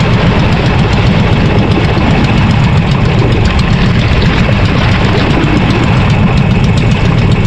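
Motorized fishing boat's engine running loudly and steadily, with an even, low-pitched drone that does not change.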